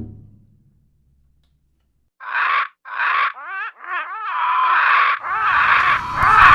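A bird of prey screeching: a run of six or so harsh calls, some with a wavering pitch, starting about two seconds in after silence. A low rumble comes in near the end.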